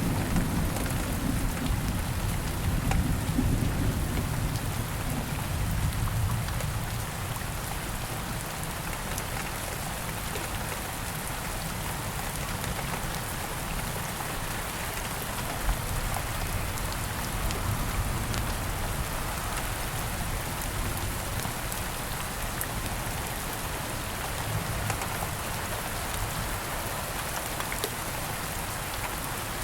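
Steady rain hiss, with a low rumble of thunder dying away over the first several seconds. Occasional faint crackles and pops from a campfire sound through the rain, one sharper pop about halfway through.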